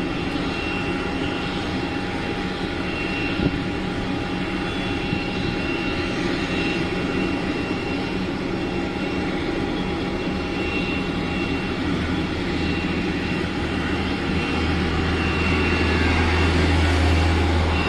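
Jet aircraft engines running: a steady roar with a constant high whine, and a low rumble that swells over the last few seconds.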